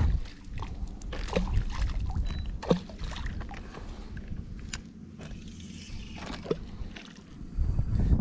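Water sloshing and lapping against a kayak hull, with a few light knocks and clicks scattered through it.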